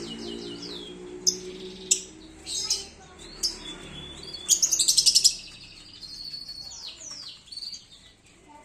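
Colony of canaries in an aviary chirping and calling, with a burst of fast trilled song about halfway through. A low steady hum fades out over the first couple of seconds.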